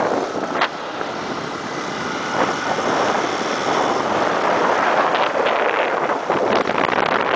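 Motorcycle on the move: engine running under a loud, even rush of wind over the microphone. The level drops briefly just under a second in and builds back up.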